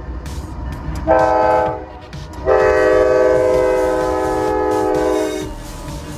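Locomotive five-chime K5LA air horn sounding a short blast, then a long blast of about three seconds, over the low rumble of the passing train.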